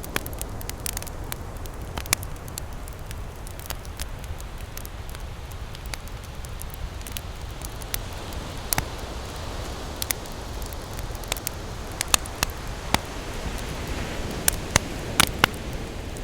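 Campfire crackling, with sharp irregular pops that come thickest near the end, over the steady wash of ocean waves.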